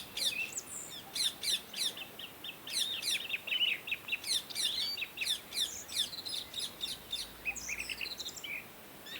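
Parrots chirping: a dense run of short, high, quickly falling chirps in clusters of several a second, with hardly a pause.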